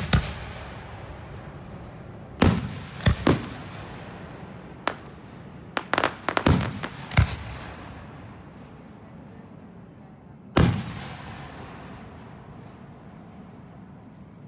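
Aerial firework shells bursting overhead: about ten sharp booms, each trailing off in a rolling echo. They come mostly in a quick cluster between two and seven seconds in, with a last single boom near eleven seconds.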